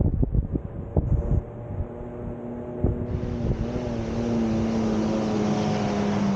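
Vehicle on the move. Wind buffets the microphone at first, then an engine hum comes through with a tone that slowly drops in pitch, and road noise fills in about three seconds in.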